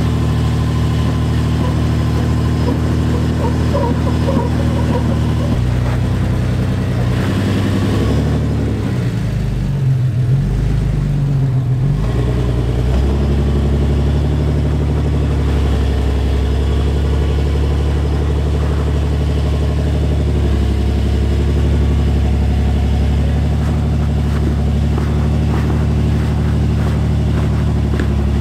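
Jeep Cherokee XJ's engine working under load as it crawls up a rock ledge. The revs waver up and down for a few seconds near the middle, then settle into a steady, higher run.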